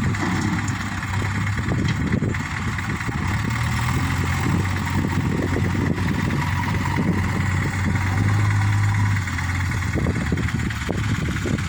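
Diesel engine of a heavy machine running steadily near idle, a little louder for about a second around eight seconds in.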